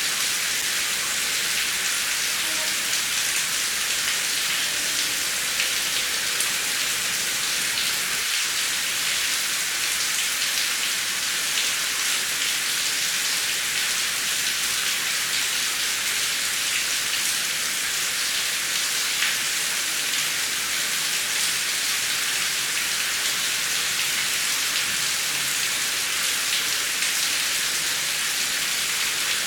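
Heavy rain falling steadily: an even hiss with many small drop ticks, and no thunder.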